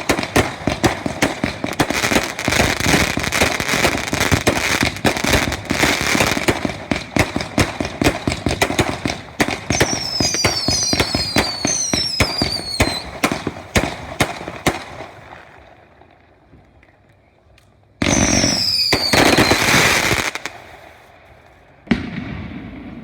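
Consumer fireworks going off: a long run of rapid crackling and popping, with several falling whistles about ten seconds in. It dies down, then a loud burst with another falling whistle comes about eighteen seconds in, and a single bang near the end.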